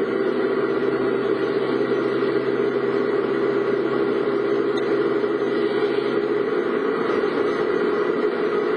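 Car engine running steadily with a constant hum and no change in pitch.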